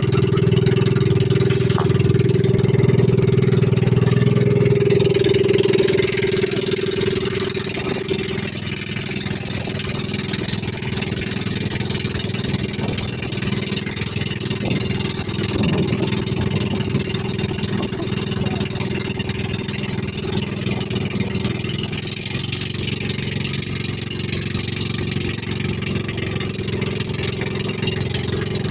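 Boat engine running steadily, getting somewhat quieter about six seconds in and then running on evenly.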